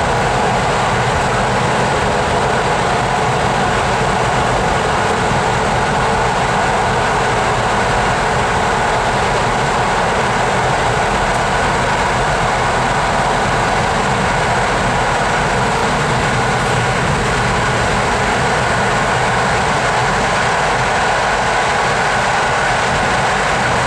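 Steady running noise of an InterCity passenger train at speed, heard from inside the coach, even and unbroken throughout.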